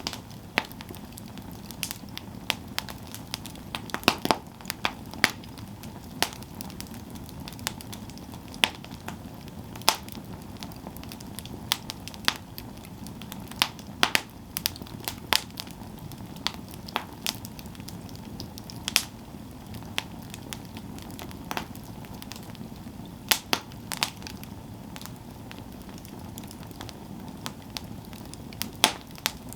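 Campfire burning: a steady low rush of flames with irregular sharp crackles and pops from the burning wood, a few loud snaps among them.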